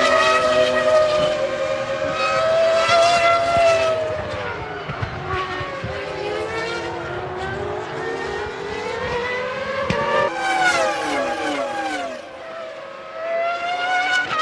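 1997 Formula One racing cars' engines at high revs, their pitch climbing and falling through gear changes. Around ten seconds in, several cars go by together and their notes drop in pitch as they pass.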